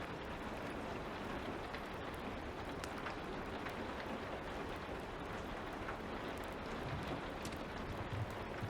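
Steady light rain with the occasional sharp crackle of a wood fire.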